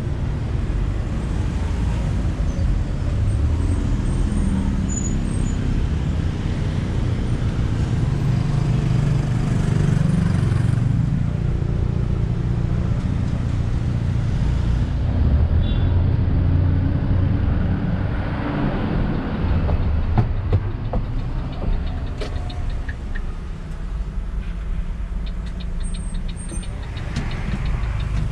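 Intercity coach bus engine running under way with a low rumble, carrying an abnormal engine noise that the driver likens to the engine brake being switched on.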